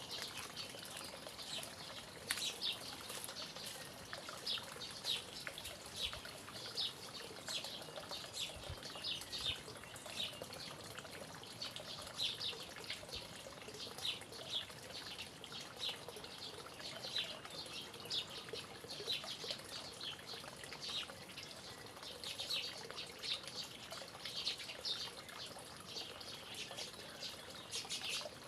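Birds chirping continually in quick short notes over a steady trickle of running water.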